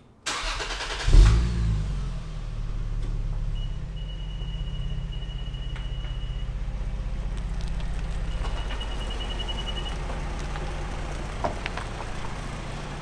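Lexus GS300's 2JZ straight-six engine cranked by the starter, catching about a second in with a brief rev, then idling steadily. A thin high tone sounds twice over the idle.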